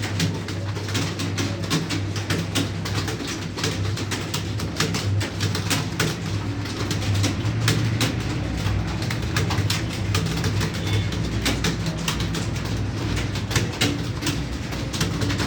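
Fast computer-keyboard typing, a dense run of keystroke clicks several per second, over a steady low hum.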